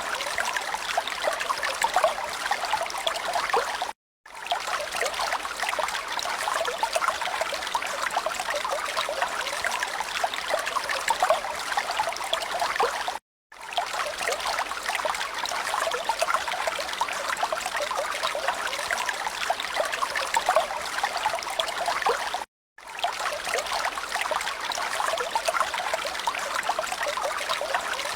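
Trickling, running water. It is a looped recording that drops to silence for a split second three times, about every nine seconds.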